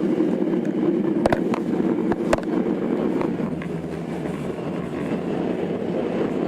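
Tokyo Metro 02 series train running on the Marunouchi Line, heard from inside the car: steady rolling and running noise with a few sharp clicks of the wheels over rail joints between one and two and a half seconds in.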